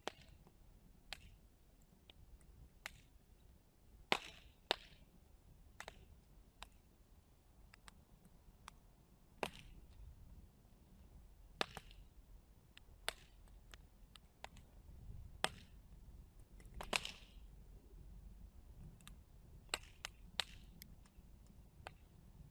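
Burning wood crackling and popping: sharp, irregular pops about once or twice a second, a few of them much louder, over a faint low rumble of the flames.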